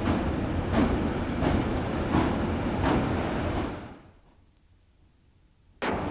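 Train running on the rails, a steady rumble with wheels clicking over rail joints about every 0.7 seconds, dying away about four seconds in. A steady wind-like noise starts abruptly near the end.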